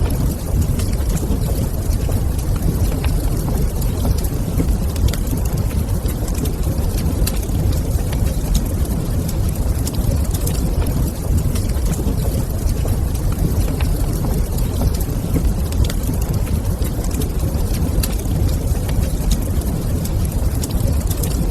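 Wood fire crackling in a fireplace, with scattered sharp pops and snaps over a steady deep rumble.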